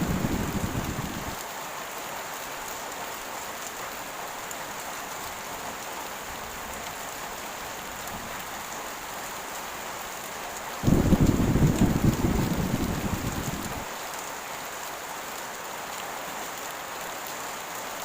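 Heavy rain falling steadily, with rolls of thunder. One rumble dies away in the first second or so, and another breaks in suddenly about eleven seconds in and fades over about three seconds.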